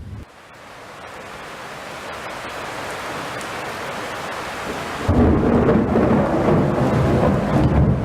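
Close thunder in a heavy rainstorm. A rushing noise swells for about five seconds, then breaks into a much louder, deep boom that keeps rolling.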